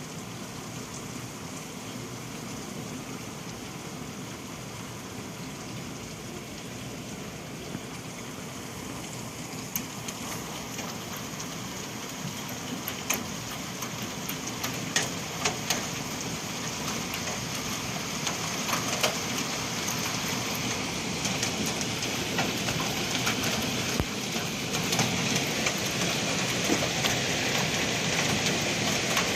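Hail coming down: a steady hiss of falling precipitation with sharp clicks of individual hailstones striking. It grows heavier and louder, and the clicks start about a third of the way in and come more often toward the end.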